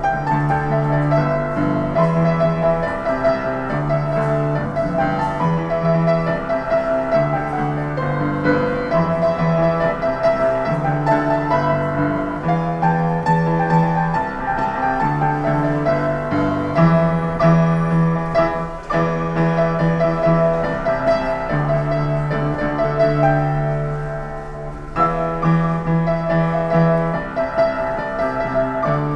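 Solo piano playing a pop tune, with a repeating bass line under chords and melody.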